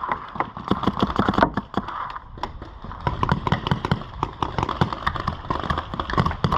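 Paintball markers firing, a rapid, irregular string of sharp pops from several guns at once.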